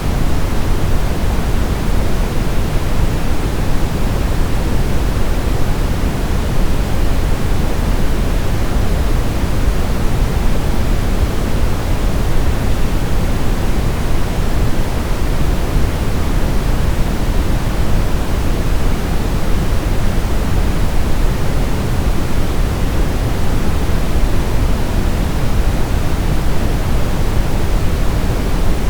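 Brown noise: a steady, even rumble-like hiss weighted heavily toward the low end, unchanging throughout.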